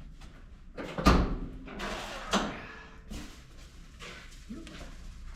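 Metal clunks from the body panels of a 1980 Chevy K20 pickup being worked open: a loud clunk about a second in, another a little after two seconds, and smaller knocks and rattles.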